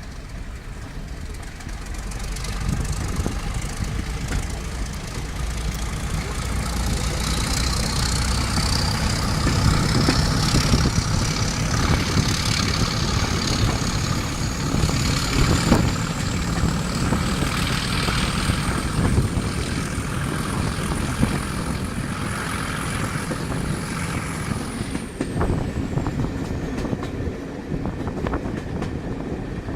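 Class 31 diesel-electric locomotive 31271 running under power, its engine sound building over the first few seconds. A high whine rises slowly in pitch for about fifteen seconds, then drops away a few seconds before the end.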